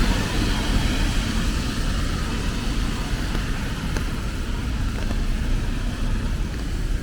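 Road traffic on a rain-wet city street: cars passing in a steady wash of noise with a low rumble underneath.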